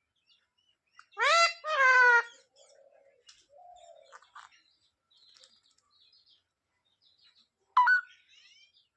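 Pet green parrot calling out a loud two-part phrase a second or so in, each part high and pitched with rising and falling inflection, then faint chatter, and a short sharp squawk that falls in pitch near the end.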